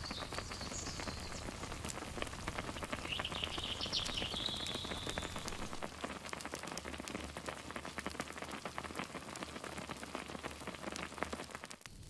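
Small campfire crackling, a dense run of little pops and snaps over a steady hiss. A high, wavering whistling tone rises over it twice, briefly near the start and again for about two seconds a few seconds in.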